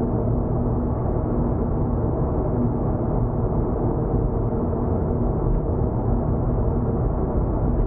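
Steady road noise and engine drone inside a car's cabin while cruising on an expressway: a low tyre rumble with a faint steady hum under it.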